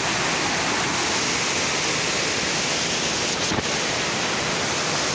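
Steady rush of flowing river water, with one brief soft tap a little past halfway through.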